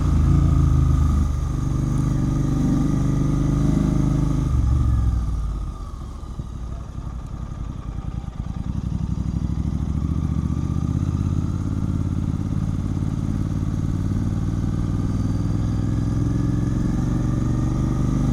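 Royal Enfield Continental GT 650's 648 cc parallel-twin engine running through a Red Rooster aftermarket exhaust while riding. The engine note falls away about five seconds in, then builds back up and holds steady.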